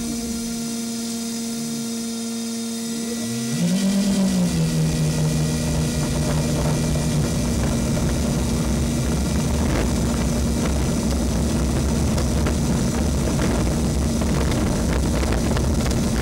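Electric motors of an RC model airliner spooling up about three and a half seconds in with a rising whine, then running with a steady rushing noise. Throughout, the steady whine of a very small ESC cooling fan is heard inside the model's cabin.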